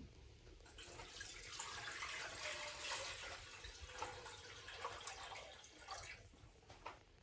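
Water running from a kitchen tap into a sink for about five seconds, with a few light clicks and splashes.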